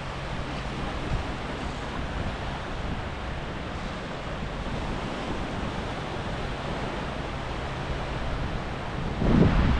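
Sea surf washing onto a sandy beach under a steady rush of wind on the microphone. Near the end a louder gust buffets the microphone.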